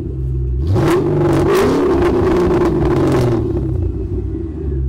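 Car engine revving: its pitch climbs about a second in and holds, with a hissing rush over it for a couple of seconds, then settles back to a steady run.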